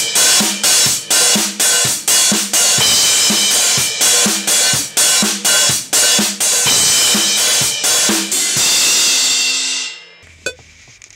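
Drum kit playing a steady beat, bass drum and snare under a constant cymbal wash, about two strong hits a second. The playing stops about eight and a half seconds in and the cymbal rings out.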